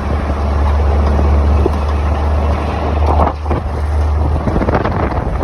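Old truck driving slowly over a bumpy dirt forest road: a steady low engine and road rumble, with occasional knocks and rattles from the bumps.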